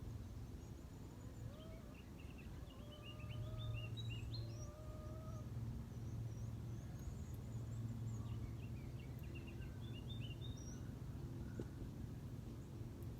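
Small birds chirping in quick clusters, about two seconds in and again around ten seconds, with a distant low call of three drawn-out notes between about one and five seconds, over a steady low hum.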